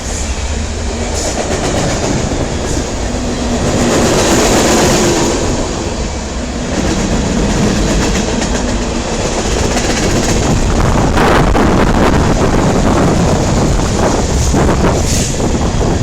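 Norfolk Southern freight train passing close at speed: a continuous heavy rush of steel wheels on rail with clickety-clack over the joints.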